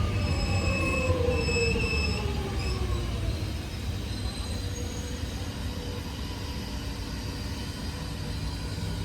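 X'Trapolis electric multiple unit train running, its electric whine falling steadily in pitch over the first three seconds, with brief high-pitched squeals in the first couple of seconds. A steady low rumble carries on and grows a little quieter.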